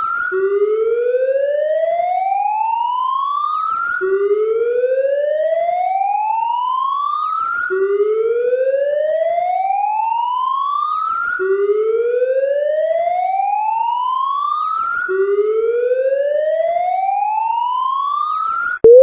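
Electronic siren-like tone sweeping slowly upward in pitch, then dropping back and rising again, about every three and a half seconds. Right at the end it switches to a louder, quicker sweep.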